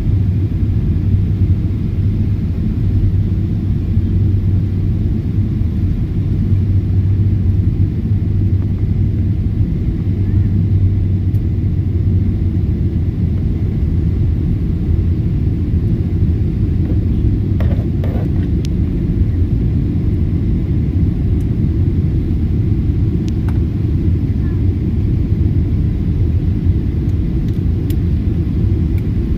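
Steady low rumble of a jet airliner's engines and airflow heard from inside the passenger cabin during the descent, with a few faint clicks about two-thirds of the way in.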